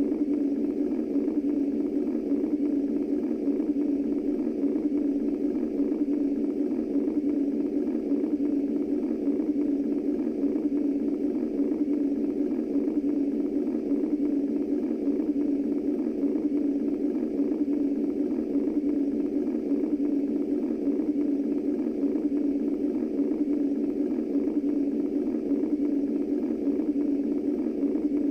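Womb white noise for soothing babies: a steady, unbroken low rushing noise, strongest in a narrow low band, with no beat or change.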